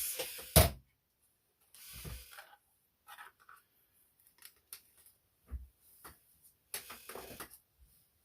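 Clicks, scrapes and creaks from a die-cutting plate sandwich and metal die being handled and worked, with one loud sharp knock about half a second in and a few short scattered clatters after it.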